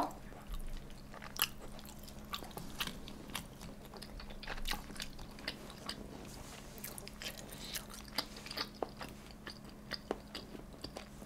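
A person chewing food close to the microphone, with soft, irregular wet clicks and smacks of the mouth throughout.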